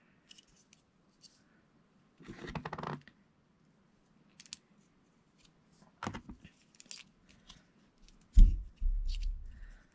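Plastic Lego pieces being handled and pressed together: a short rustle of pieces, then scattered sharp clicks, and a louder knock about eight seconds in followed by a low rumble of handling.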